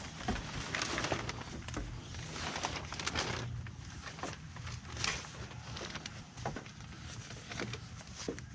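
Irregular footsteps and small knocks over a low, steady hum.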